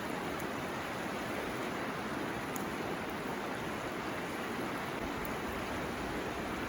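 A river flowing, giving a steady, even rushing sound.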